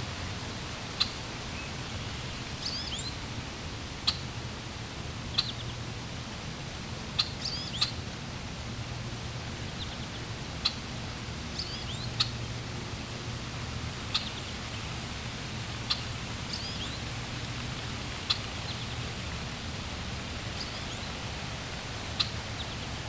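Steady rush of flowing water with small birds chirping over it: short sharp chirps and quick twittering calls every second or two.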